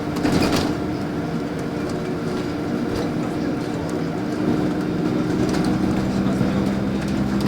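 LiAZ 5292 city bus under way, heard from inside the cabin: a steady engine and drivetrain hum with light rattles and clicks.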